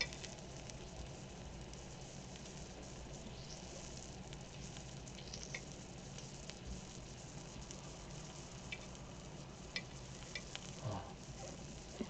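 Pork belly and garlic sizzling in a pan: a steady, quiet frying hiss, with a few short clicks here and there.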